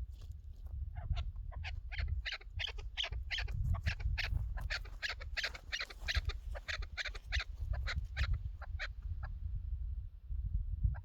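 Chukar partridge calling: a long series of short, quick, repeated notes that builds up about a second in, packs tightly in the middle and thins out near the end, over a low rumble.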